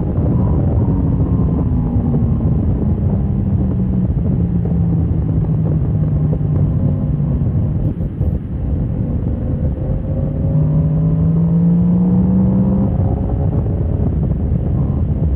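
Motorcycle engine running hard on a race track. Its note falls over the first several seconds as the bike slows, drops out briefly about eight seconds in, then climbs again as it accelerates.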